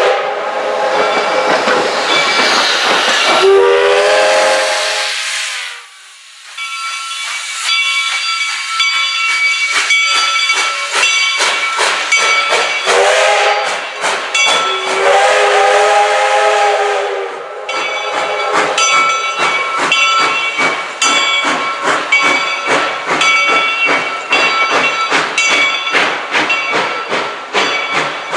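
A train whistle blowing three long chord blasts, the first sagging in pitch as it ends, over the rapid clicking and ringing of a passing train's wheels on the rails.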